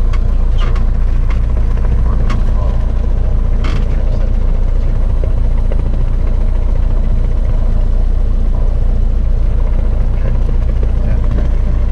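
Cessna 172 engine and propeller running with a steady, loud low drone that holds even throughout, with a few brief sharp sounds in the first four seconds.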